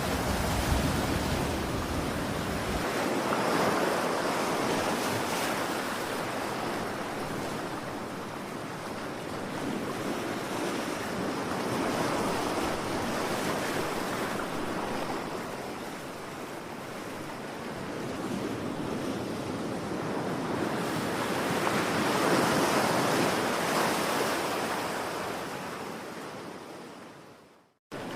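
Ocean surf: waves washing in with slow swells every eight to ten seconds. Near the end the sound fades out to silence and then cuts back in abruptly.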